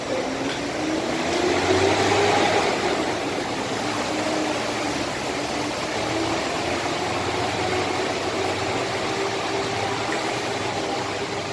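Large bus engine revving up, rising in pitch and loudest about two seconds in, then running steadily over a constant hiss.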